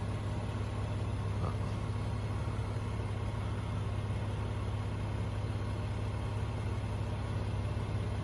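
Nissan Maxima SR's 3.5-litre V6 idling steadily: an even, low hum.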